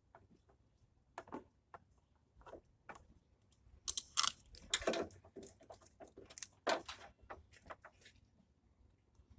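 Irregular clicks, rattles and scrapes of small plastic and metal parts being handled and fitted onto a replacement car headlamp assembly, loudest about four to five seconds in and again near seven seconds.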